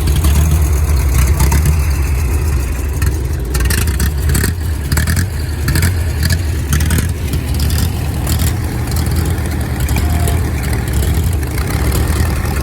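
Vintage aero-engined race car engines idling: a loud, deep, steady rumble, with a run of sharp crackles through the middle.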